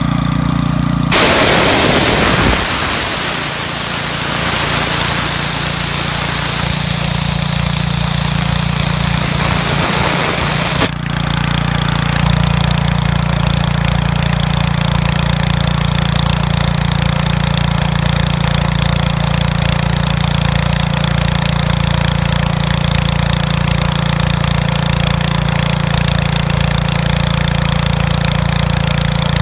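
Iwata SUE-152P engine-driven air compressor running steadily, with a loud rush of air for about ten seconds from about a second in that cuts off abruptly, the engine dipping slightly while the air flows and then running on evenly.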